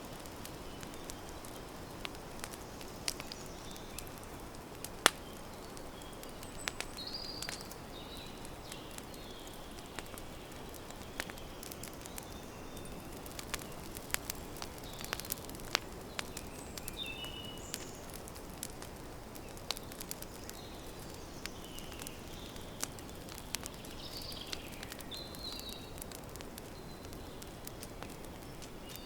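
Campfire burning with frequent sharp crackles and pops, one loud pop about five seconds in, over a soft steady hiss. Birds give short high chirps every few seconds.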